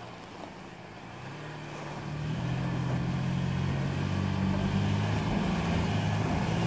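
Lexus RX330's 3.3-litre V6 revving hard under load as the SUV tries to climb an off-road obstacle. The engine note rises about two seconds in and then holds high. Only the front wheels are pulling; the rear wheels are not driven.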